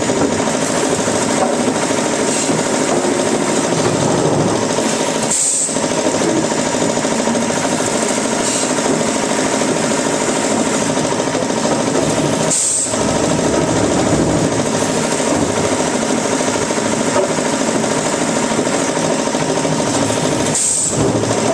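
Wood-processing machinery running steadily, with a short break about every seven seconds.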